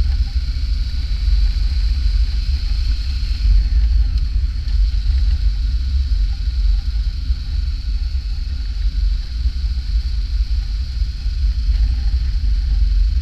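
Motorcycle running steadily along the road, under a heavy, even low rumble of wind on the microphone.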